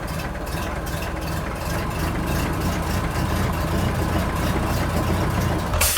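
Tractor-style engine running steadily with a heavy low chugging, stopping abruptly just before the end.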